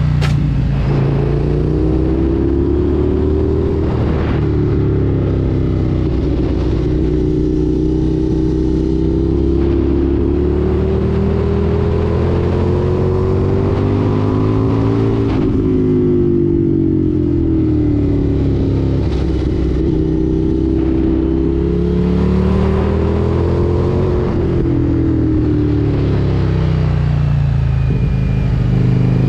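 Indian FTR 1200 S motorcycle's V-twin engine under way, its pitch climbing slowly under throttle and dropping back several times, about every four to eleven seconds, over a steady low rumble.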